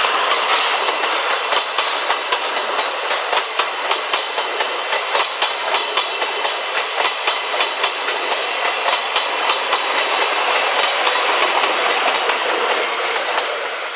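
Steam-hauled passenger train rolling past close by, its wheels clattering over the rail joints in a regular run of clacks, a few each second, through the middle.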